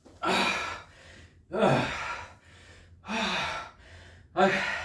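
A man breathing hard from exertion in the middle of a burpee workout: four loud, partly voiced gasping breaths, about one every second and a half, with quieter panting between them.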